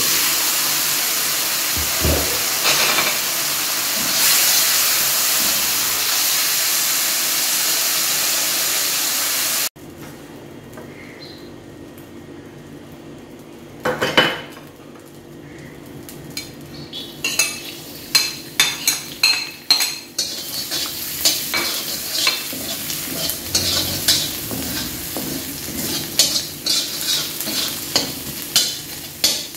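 Chicken frying under a lid in an iron karahi with a loud, steady sizzle that cuts off abruptly about a third of the way in. After a single knock, a steel spatula scrapes and clicks rapidly against the karahi as chopped vegetables fry in oil with a lighter sizzle.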